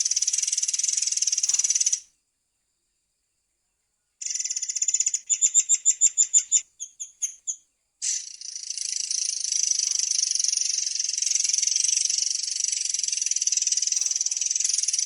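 Murai air songbird singing a long, dense, high-pitched trill. It cuts out completely about two seconds in, resumes with a run of about ten rapid, evenly spaced notes, then returns to the continuous trill from about eight seconds in.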